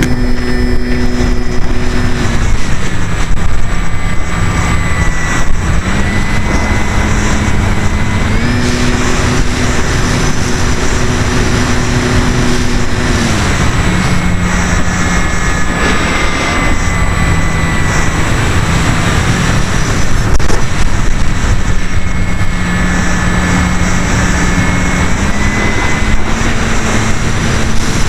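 Electric motor and propeller of an E-flite Apprentice RC trainer plane heard from a camera mounted on the plane, a steady whine whose pitch steps down and up several times as the throttle is changed, over a heavy rush of air.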